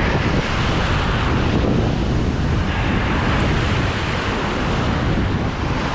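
Sea surf washing with wind rumbling on the microphone: a steady rushing noise with no separate events.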